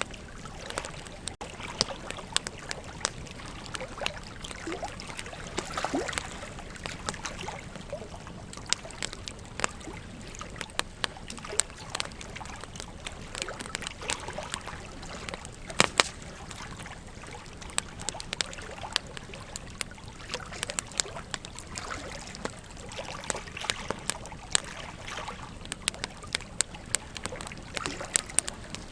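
Burning wood crackling, with many irregular sharp pops and snaps, over a steady rush of flowing river water.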